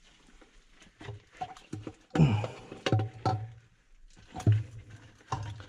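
Irregular knocks and clatter from hands handling the float switches, cords and fittings of a sewer ejector pump in its basin, with deep rumbling thuds of handling noise. The loudest knocks come about two seconds in.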